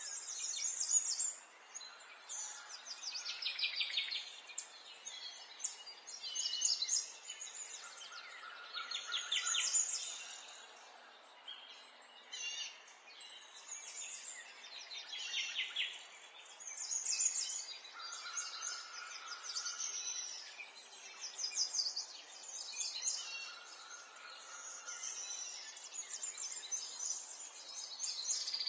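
Several songbirds singing, with overlapping phrases and fast, high trills, some falling in pitch, coming every second or two, over a faint hiss. A few short, lower held whistles are mixed in.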